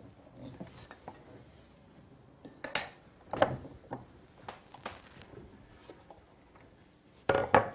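Steel burnisher drawn along the edge of a scraping-plane blade clamped in a vise: a series of short metal-on-metal scrapes and clinks as the hook, or burr, is turned on the edge, with a louder clatter near the end.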